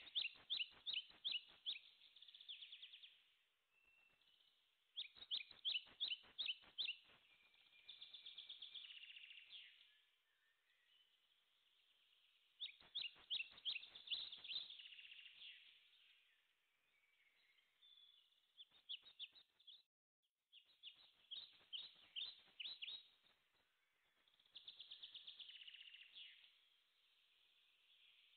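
Birdsong, faint: a songbird singing phrases of rapid, high repeated notes with trills, a new phrase every few seconds.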